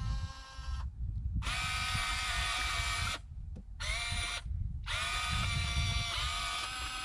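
Huina V4 radio-controlled excavator's electric motors and gearboxes whining as it is worked. The whine cuts out three times, about a second in, past three seconds and near four and a half seconds, and rises in pitch each time it starts up again.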